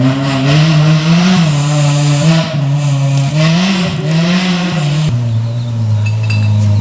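Off-road race car engine running hard, its revs rising and falling repeatedly, then settling to a lower steady pitch about five seconds in.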